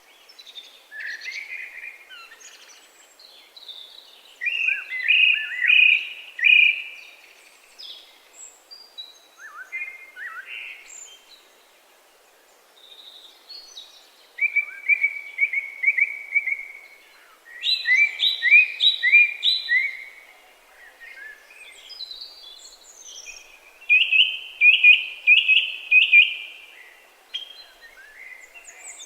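Songbirds singing: several phrases, each a quick run of repeated high notes lasting a second or two, with scattered shorter chirps in between, over a faint steady background hiss.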